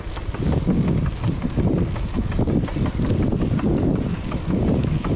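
Steady wind buffeting on the microphone of a moving rider's action camera, mixed with road noise.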